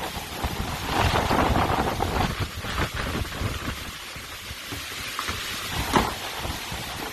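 Storm wind and wind-driven rain, the gusts buffeting the microphone with a low rumble, swelling and easing unevenly.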